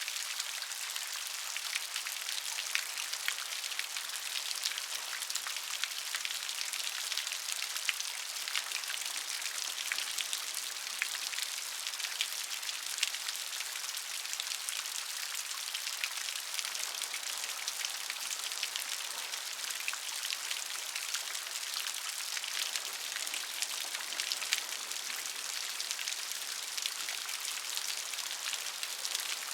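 Steady rain falling on a surface, a dense hiss of many individual drop patters with no thunder.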